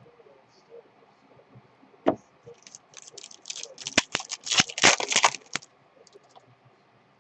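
Trading card pack being opened and handled: a sharp click about two seconds in, then about three seconds of crinkling and tearing of the wrapper mixed with sharp clicks.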